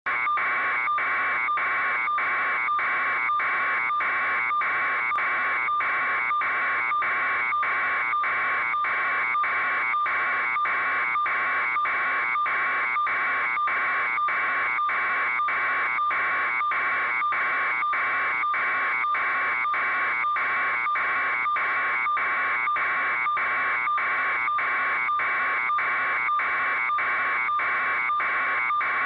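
Electronic alarm buzzer sounding a harsh, even buzz that pulses a little over twice a second, unchanging throughout.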